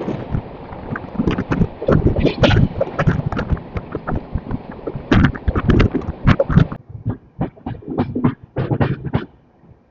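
Indian Railways express train pulling out of a station, heard on board: a quick, irregular run of knocks and thumps as the coach wheels cross rail joints and points. A background hiss drops away about seven seconds in, leaving the knocks.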